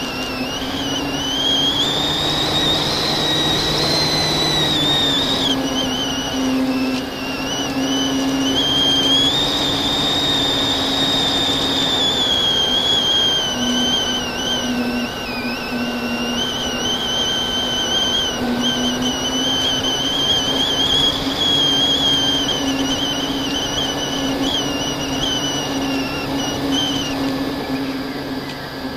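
FPV quadcopter's electric motors whining, the pitch rising and falling with the throttle throughout the flight.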